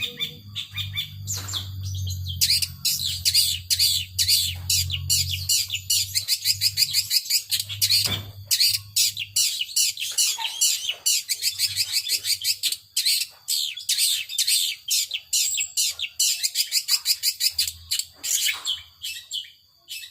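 Long-tailed shrike (cendet) singing in the 'power sobek' style, a fast, unbroken string of sharp high chirps. A steady low hum runs under it for the first few seconds, then fades.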